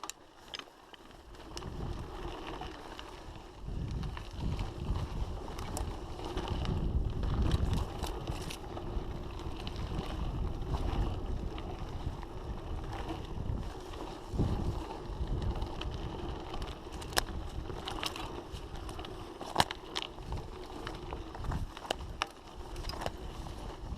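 Strong wind buffeting the microphone in uneven gusts, with a few sharp clicks or knocks scattered through.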